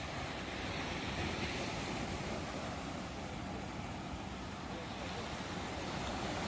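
Ocean surf: a steady rush of breaking waves, swelling a little about a second in and again near the end.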